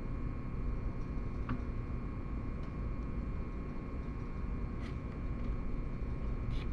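Steady background hum and hiss of a workshop with a few faint, light clicks about a second and a half in, near five seconds, and near the end.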